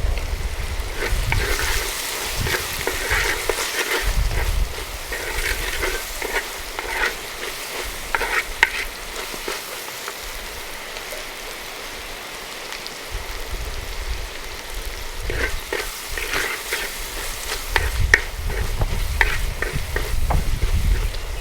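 Food frying in a pan while it is stirred and scraped with a metal spoon: a steady sizzle with bursts of scraping clicks, the stirring pausing in the middle and starting again.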